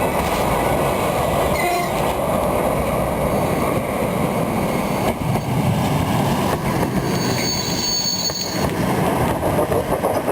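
Railway cars rolling past, a steady rumble of wheels on rail with clickety-clack. A high wheel squeal rings for about a second and a half, starting some seven seconds in.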